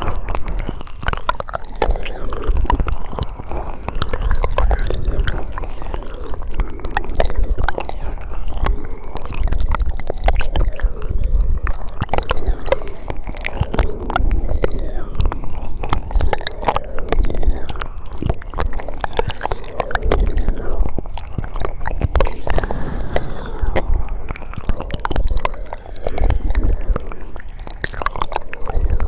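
Close-miked ASMR mouth sounds: a continuous run of wet clicks, smacks and chewing-like crackles.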